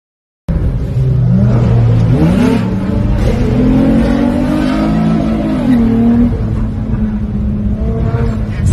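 Car engine running hard under road noise, its pitch rising as it accelerates and later easing off, starting abruptly about half a second in. A sharp knock comes right at the end.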